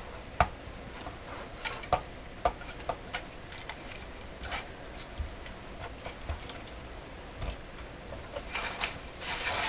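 Scattered light clicks and knocks from a portable transistor radio being handled and tipped over on a workbench, with a busier patch of rubbing and clicking near the end.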